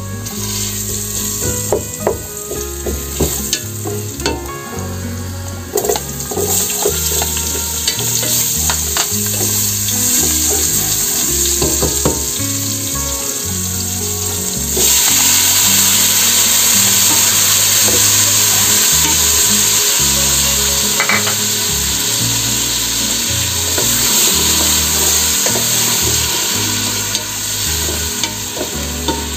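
Garlic and onion sizzling as they sauté in oil in a pot, with the wooden spatula scraping and stirring. About fifteen seconds in, chopped tomatoes are tipped in, and the sizzle turns louder and steadier.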